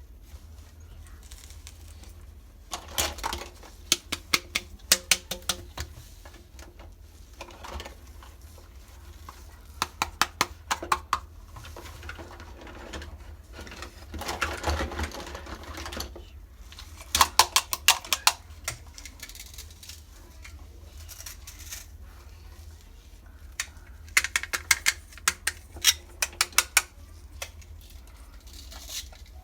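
Small hard plastic pieces of a Hello Kitty toy kitchen set being handled: quick clicks and taps in several clusters, with a longer rough handling noise in the middle.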